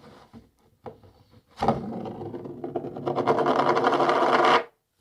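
A coin spinning on a cardboard box, rattling against the cardboard as it wobbles down; the rattle grows steadily louder and stops suddenly as the coin falls flat. A few light taps come before the spin starts.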